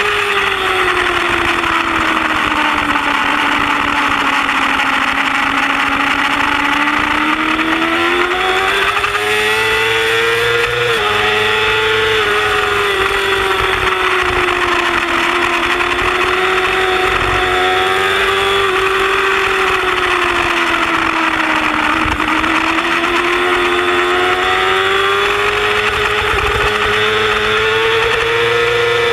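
Yamaha R6 inline-four sportbike engine running hard at high revs, its note sagging and climbing slowly with the throttle through long sweeping corners, with a brief step in pitch about eleven seconds in. Wind rushes steadily underneath.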